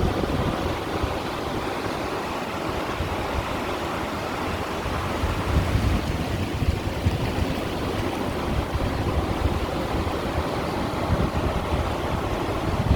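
Sea water washing against shoreline stones in a continuous wash, with a deep rumble beneath and slight swells in loudness.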